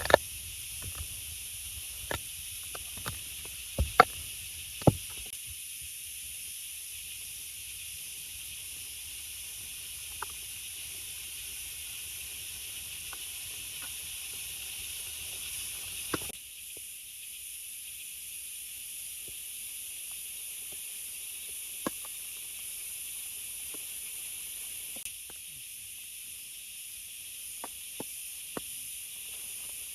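Steady hiss of rain, with several sharp knocks in the first five seconds and a few single ones later.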